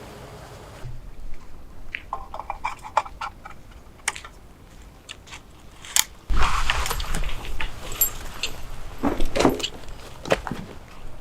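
Light clicks, clinks and knocks of objects being handled, louder from about six seconds in, with a low rumble of handling or wind on the microphone.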